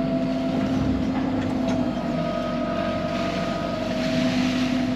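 Excavator's diesel engine running steadily, heard from inside the cab, with a steady whine held over the engine noise.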